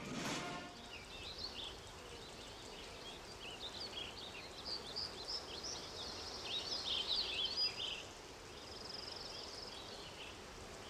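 Small birds chirping and singing outdoors, a busy chatter of short, high notes that thins out after about eight seconds, with a brief buzzy trill near the end over a faint steady hiss.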